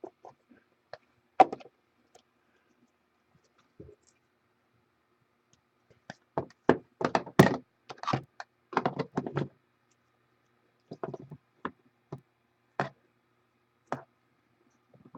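Short knocks and taps of trading-card handling: cards and their hard plastic holders being set down and tapped on a table. They come singly at first, then in a quick run about six to nine seconds in, then a few spaced ones.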